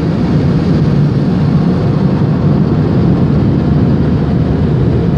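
Steady, loud rumble of a mini tunnel car wash's machinery running while its conveyor pushes the car through, heard from inside the car.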